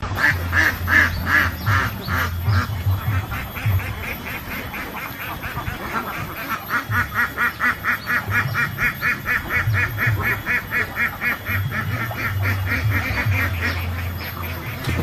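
Waterfowl calling in a fast series of short, repeated quacking calls, a few a second at first, then a long, quicker run of even calls in the second half. A low rumble comes and goes underneath.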